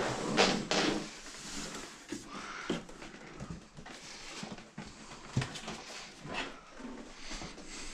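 Hands hooking up a desktop computer: irregular clicks, knocks and rustling as cables are handled and plugged in, with the loudest knocks near the start and about five and a half seconds in.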